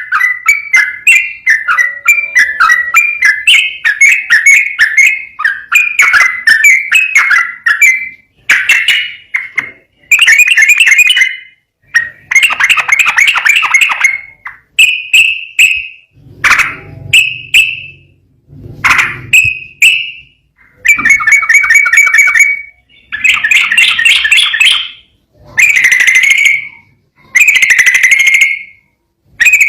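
Yellow-vented bulbul (trucukan) singing its rapid, bubbly whistled song: a fast unbroken run of chattering notes for about eight seconds, then repeated one- to two-second phrases separated by short pauses.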